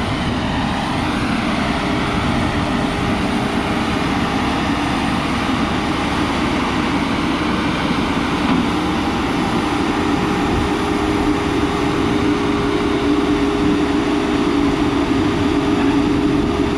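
Heavy diesel engine running steadily, its low hum growing a little stronger in the second half.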